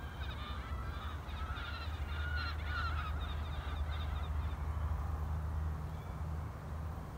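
Birds calling repeatedly in a quick series of short calls, which thin out and stop after about four and a half seconds, over a steady low rumble.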